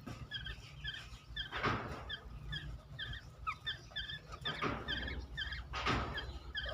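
Black-naped oriole (kepodang) chirping in short, quick notes, about three a second, with three louder harsh rasping calls about two, five and six seconds in.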